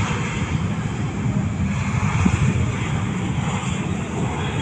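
Airliner engines: a steady rumble with a hiss above it.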